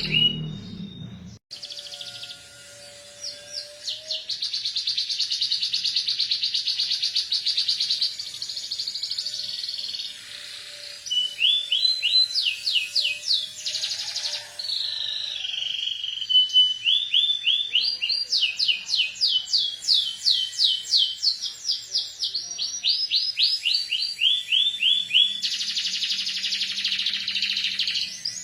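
Domestic canary singing a long, fast trill, then runs of quick repeated rising notes, a song filled with learned imitations of the ciblek gunung's rapid 'ngebren' trilling.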